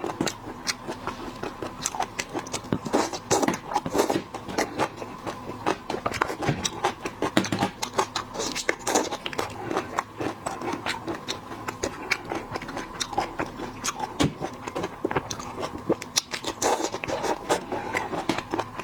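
Shrimp being peeled and eaten up close: a dense, irregular run of small cracks, clicks and scrapes of shell, mixed with chewing.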